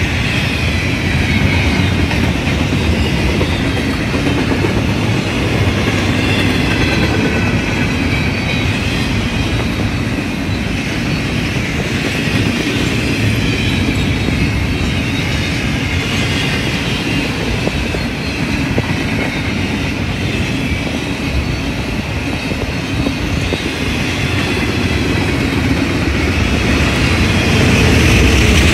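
Canadian Pacific double-stack intermodal container train rolling past at close range. Its steel wheels on the rail make a steady, loud rumble, over which runs a wavering high-pitched squeal.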